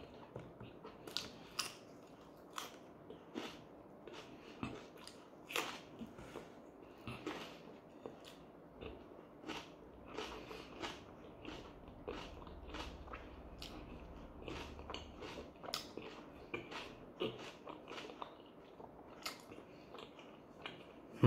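A man chewing a bite of pljeskavica in flatbread close to the microphone: irregular wet mouth clicks and smacks, several a second. A loud thump comes right at the end.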